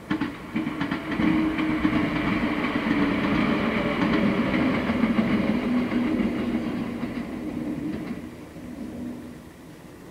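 JR West 115-series electric train passing close by, its steady hum mixed with the repeated clicking of wheels over rail joints. The sound comes up abruptly at the start and fades away over the last two seconds or so.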